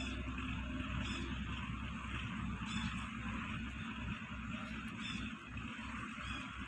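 Short high chirps of a small bird, repeated every second or two over a steady low hum and hiss of background noise.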